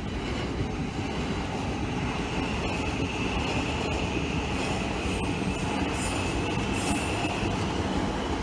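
A train running on rails, a steady rumble with a high squeal held throughout and a couple of brief hissing flares near the end.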